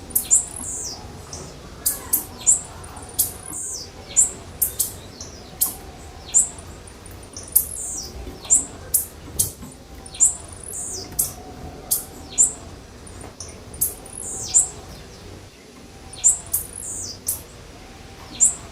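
Blue-black grassquit (tiziu) calls: short, sharp, high-pitched chirps repeating irregularly, about one or two a second.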